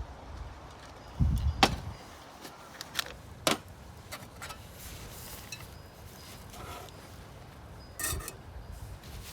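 A few sharp clicks and knocks over a quiet background: a dull thump with a knock about a second in, two more single clicks a couple of seconds later, and a short cluster near the end.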